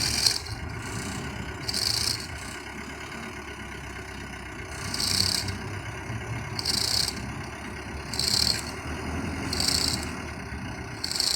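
Diesel engine of a Colt Diesel dump truck idling steadily. A short, high-pitched rattle or hiss comes about every one and a half seconds over it.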